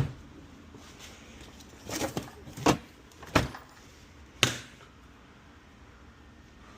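A series of sharp knocks and clunks, about five in the first four and a half seconds, as hard objects such as tools and boxes are handled and set down.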